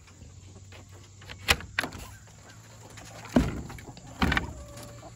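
Clicks and knocks of a chicken coop door being unlatched and swung open, its corrugated panel rattling, with two louder knocks about three and a half and four and a quarter seconds in.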